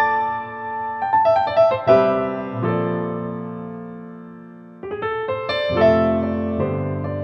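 Slow piano music: notes and chords struck about one and two seconds in, left to ring and fade, then a new phrase about five seconds in.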